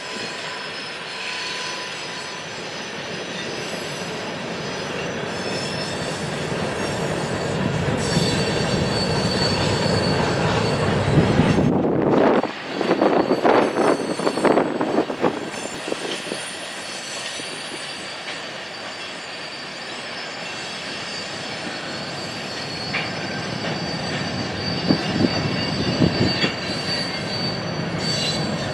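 Train passing: steel wheels rolling on the rails with a steady rumble and a thin, high squeal. About halfway through there is a sudden break, then a few seconds of loud, uneven clatter.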